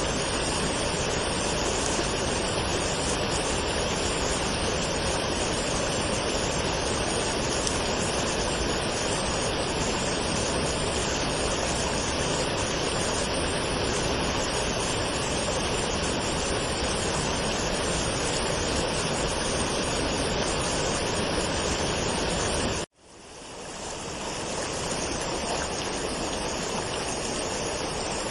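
Waterfall rushing as a steady roar of falling water. About 23 seconds in it cuts out suddenly and fades back in over a second or two, a little quieter, like an edit or loop point.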